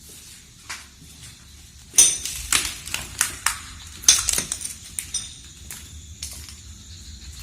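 Irregular sharp clicks and clatters of hard objects knocking, loudest and closest together about two to four and a half seconds in, then sparser. About five seconds in, a faint steady high-pitched tone sets in.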